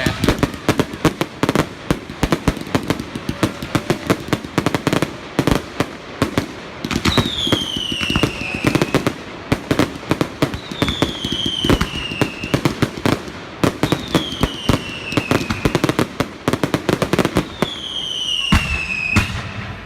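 Fireworks display: a continuous rapid string of sharp bangs and crackles, with four whistles that each fall in pitch over about two seconds.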